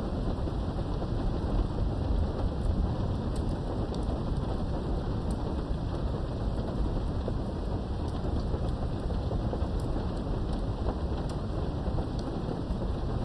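Steady rain heard from behind a window, with a continuous low rumble of thunder underneath and scattered faint drop ticks. The level stays even throughout, with no sharp thunder crack.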